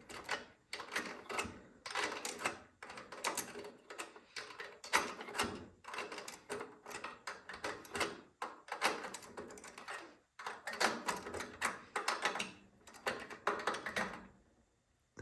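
A hand tool clicks and scrapes on metal as a nut is tightened on a Tecumseh 5 hp snowblower engine. The clicks come in irregular bunches with short pauses, and the sound stops about a second before the end.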